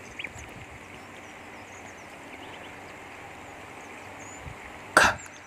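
Faint bird chirps over a low steady hiss, with one sharp click about five seconds in.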